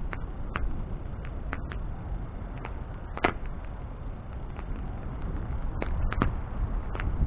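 Bonfire burning with a low steady rumble of flame, broken by irregular sharp crackles and pops, the loudest about three seconds in.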